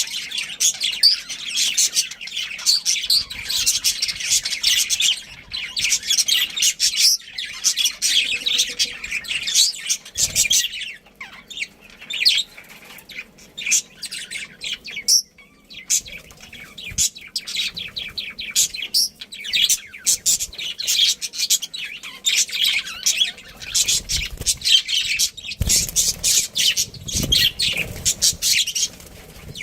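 Budgerigars chirping and chattering: a dense, continuous run of rapid high chirps, with a couple of brief pauses.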